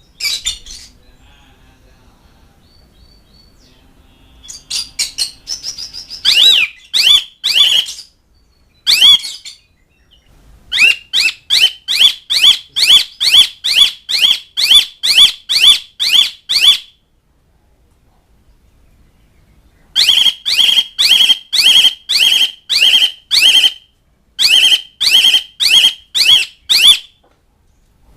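Asian pied starling (jalak suren) calling, used as a call to draw mates and rivals. Loud, repeated down-sweeping notes come about two a second, in runs of several seconds with short pauses between.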